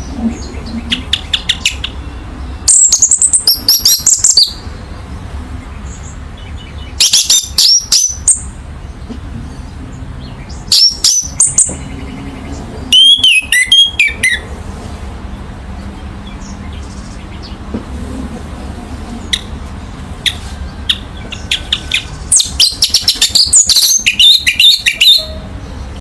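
Orange-headed thrush singing in loud bursts of fast, varied whistled phrases, about five in all, separated by pauses with a few single notes, over a steady low hum.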